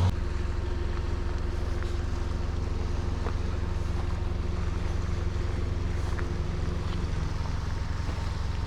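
Motor boat's engine running steadily as the boat passes, a low hum with a thin higher tone that drops out about seven seconds in.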